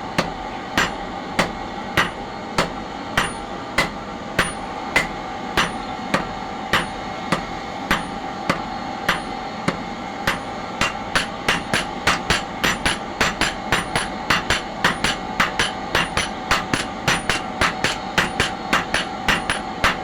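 Blacksmith's hammer striking metal on an anvil in an even rhythm, about one and a half blows a second, quickening to about three a second about halfway through. A steady hum runs underneath.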